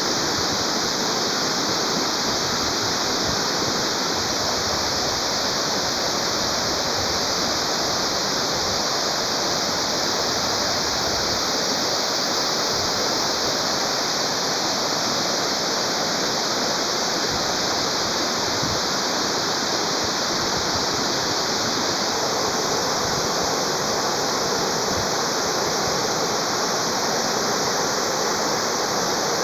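Waterfall pouring and splashing, a steady, unbroken rush of water.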